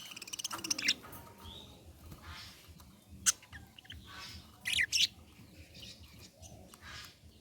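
Budgerigar chirping and chattering: a quick rattling chatter in the first second, then scattered short, sharp, high chirps, with the loudest about a third and two-thirds of the way through.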